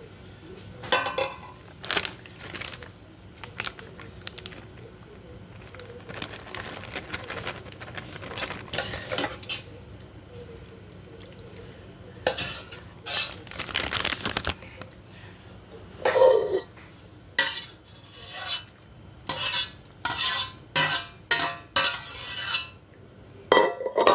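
Kitchen utensils scraping and clinking against a dish as pasta and cheese are spooned and spread, in irregular strokes that come thicker and louder in the second half.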